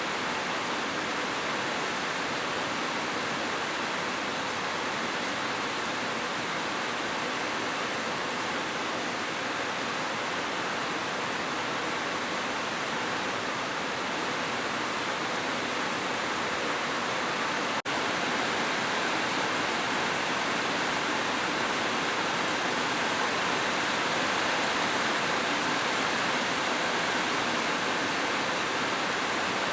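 Heavy rain falling steadily as an even, unbroken hiss, with a momentary dropout about eighteen seconds in, a little louder after it.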